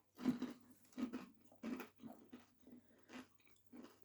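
Someone chewing breaded chicken strips close to the microphone: faint, irregular crunches, several a second at times, with pauses between.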